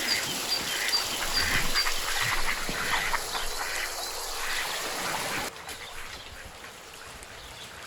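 Birds calling: many short, repeated calls with high chirps over them, until an abrupt change to a quieter background about five and a half seconds in.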